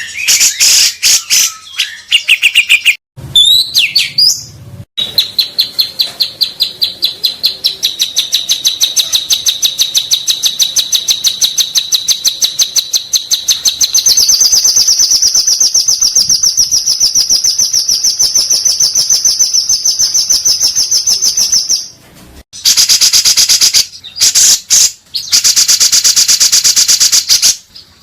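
Songbird singing: a long, very fast trill of evenly repeated notes that steps up in pitch about halfway through, then loud bursts of rapid song near the end.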